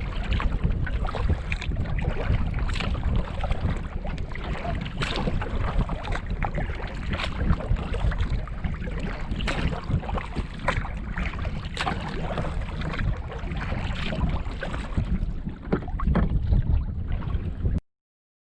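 Wind buffeting the microphone in a heavy low rumble while water splashes and laps against a canoe in short irregular bursts, all cutting off suddenly near the end.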